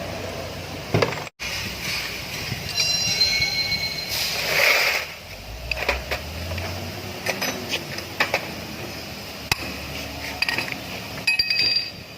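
Steel transmission parts and tools clinking and knocking during disassembly. Several strikes ring on briefly, and there is a short rushing noise about four seconds in.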